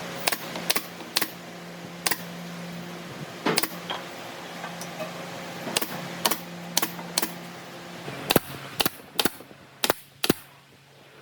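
Irregular sharp knocks and taps, about fifteen of them, typical of a hammer or mallet striking wood during carpentry, over a steady low hum that fades near the end.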